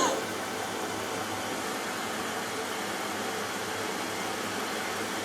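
Steady low hiss and faint hum from a Hoover Dynamic Next washing machine just after the start of a cotton cycle, before water begins to fill the drum.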